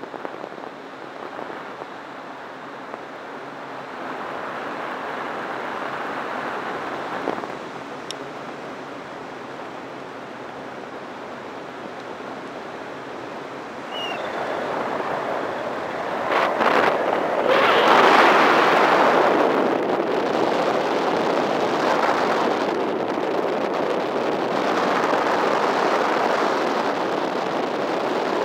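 Wind rushing over the microphone and through the paraglider's lines in an engine-off glide, with no engine running. It is moderate at first, then grows much louder about halfway through and stays strong, with gusty swells.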